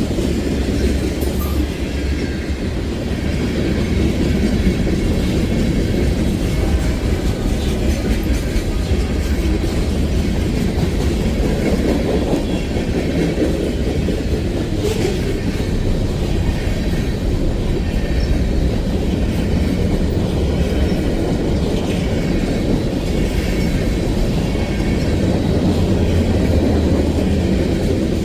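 Freight train rolling past, a steady loud rumble of wheels on rail with a clickety-clack over the rail joints.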